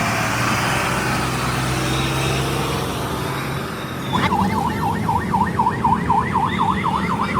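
Electronic siren: a slow wail falling away in the first second, then from about four seconds in a fast yelp, quick up-and-down sweeps about three a second, over a steady low engine rumble.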